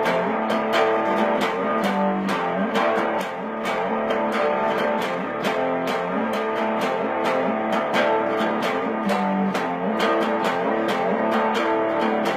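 Guitar strummed in a steady rhythm, an instrumental break in a song with no singing.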